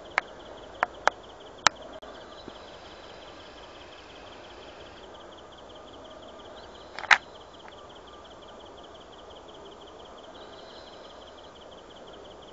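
An insect's steady, rapidly pulsing high trill, with a few sharp clicks: four in the first two seconds and a louder one about seven seconds in.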